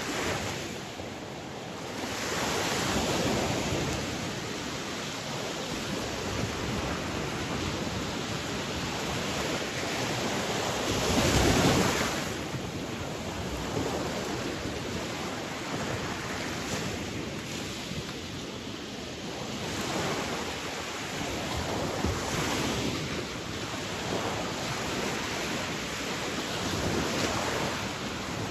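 Sea waves breaking and washing on a shore, a steady rush of surf that swells every few seconds, with one louder wave about eleven seconds in.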